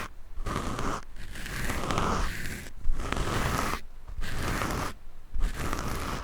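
Scratching directly on a microphone: several long rasping strokes, each a second or so, broken by short pauses.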